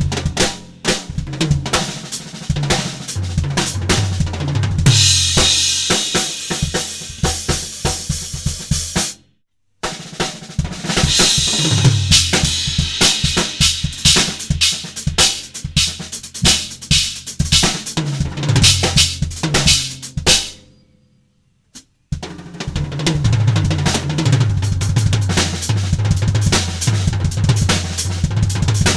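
Drum kit played in a groove with bass drum, snare and rimshots, its Omete cymbals crashing and washing in stretches, over a backing track with a bass line. The playing drops out suddenly to silence twice, briefly about nine seconds in and for about a second around twenty-one seconds in.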